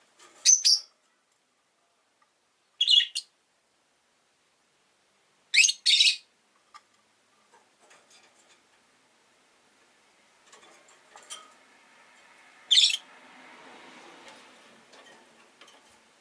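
Rosy-faced lovebirds giving short, sharp, high-pitched chirps, single and paired calls a few seconds apart. Faint background noise swells and fades in the second half.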